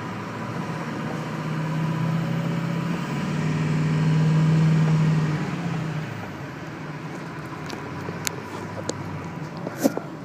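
A vehicle passing close by, its low hum swelling to a peak about four and a half seconds in and fading away by six seconds, over a steady rush of wind. A few sharp clicks near the end.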